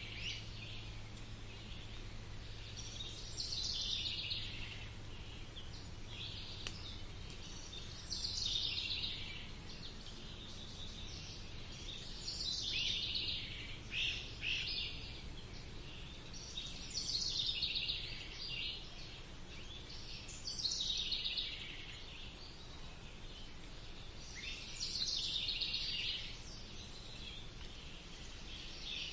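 Songbird singing a short song phrase again and again, about every four seconds. Each phrase is high-pitched, lasts about a second and falls in pitch. Under the song there is a faint steady low background noise.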